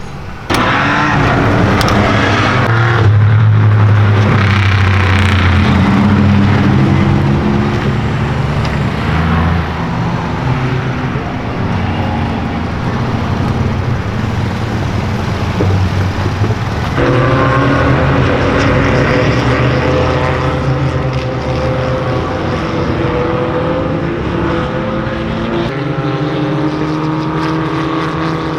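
Midget race car engines running at speed, holding fairly steady pitches that change abruptly about half a second in, near the middle and again near the end.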